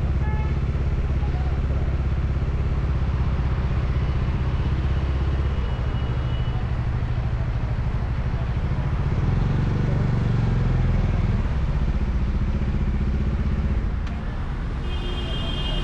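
Steady low rumble of road and engine noise from a moving vehicle in city traffic, swelling for a couple of seconds about two-thirds of the way in. A short high-pitched tone, like a horn, sounds near the end.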